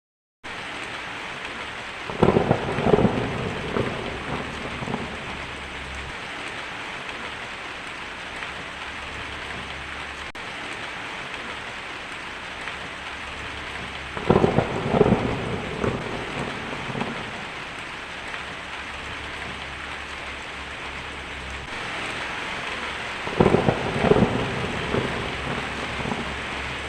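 Steady rain, with three peals of thunder spaced evenly apart, each a cluster of cracks and rumbles lasting two to three seconds.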